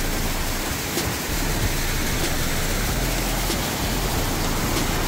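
Steady rush of fast-flowing creek water running heavily, with a low wind rumble on the microphone.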